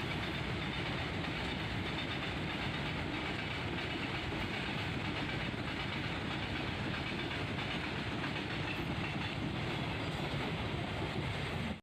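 Train running past a railway level crossing: the steady noise of its wheels on the track.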